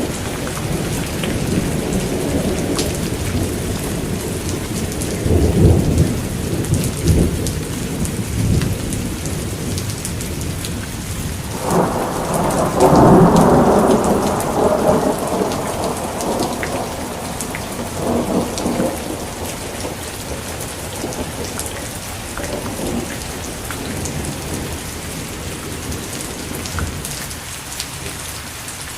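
Steady heavy rain falling on surfaces, with rolling thunder: low rumbles a few seconds in, then a louder peal starting suddenly about twelve seconds in that rumbles on for several seconds, and fainter rolls after it.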